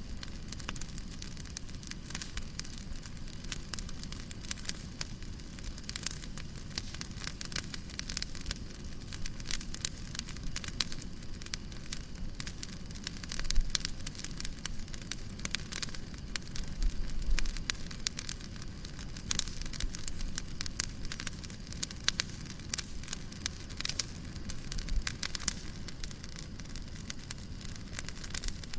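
Fireplace crackling: a steady low rumble of flames with dense, irregular pops and snaps of burning wood.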